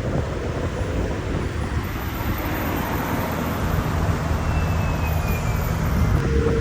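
Steady low engine rumble with traffic noise from cars on a road, holding an even level without any sharp rise or fall in pitch.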